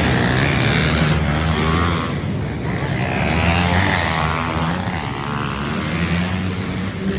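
Several pit bike engines racing, revving up and down so that the pitch repeatedly rises and falls as they pass.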